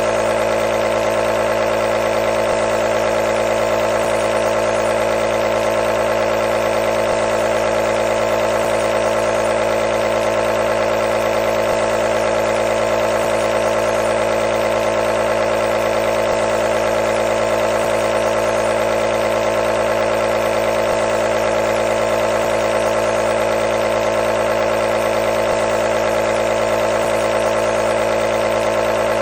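Electric nebulizer's compressor running with a steady buzzing hum.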